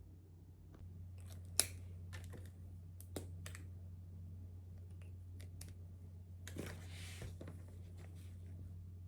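Scattered small clicks and taps of objects being handled, the sharpest about one and a half seconds in, with a brief rustle a little past the middle, over a steady low hum.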